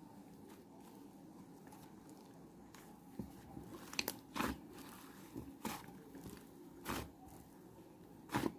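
Crisp food being bitten and chewed: a handful of short, irregular crunches starting about three seconds in, the loudest near the end.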